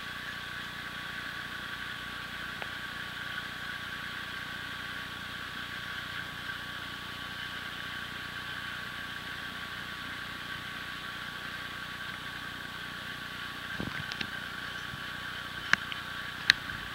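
Norfolk Southern freight train of steel cars rolling steadily past, a constant high-pitched tone over the wheel noise. A few sharp clicks near the end.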